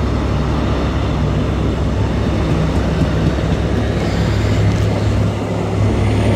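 Class 43 HST power car's diesel engine idling at a platform: a steady low hum that grows louder near the end.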